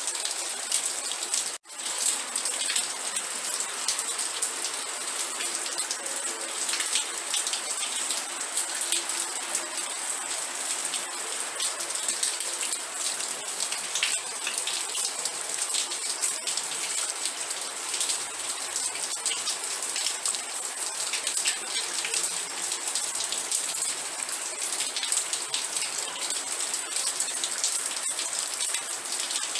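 Steady rain falling, a dense patter of drops over an even hiss. It cuts out for an instant about a second and a half in, then carries on unchanged.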